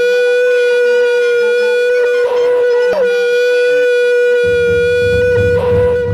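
A wind instrument holds one loud, steady note, with short dips in pitch twice near the middle. About four seconds in, a low pulsing beat comes in underneath.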